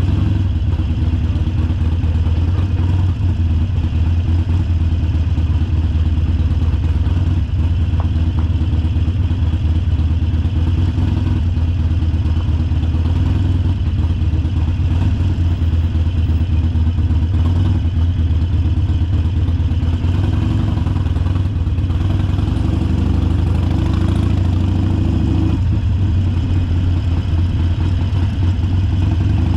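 Harley-Davidson Sportster Forty-Eight's 1200 cc V-twin engine running steadily with a deep, low exhaust note, its sound shifting a little about two-thirds of the way through.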